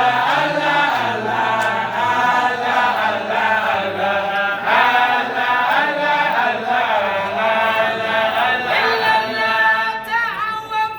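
Voices chanting an Arabic religious praise poem (a qasida) unaccompanied, in long held notes that bend in pitch; near the end one voice sweeps up and down in pitch.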